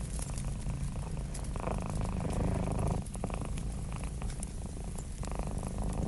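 Domestic cat purring steadily, swelling twice with its breathing, over the scattered crackle of a wood fire.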